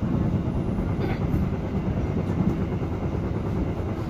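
Steady low rumble of a moving passenger train heard inside a closed carriage: the bogies and wheels running on the rails underneath.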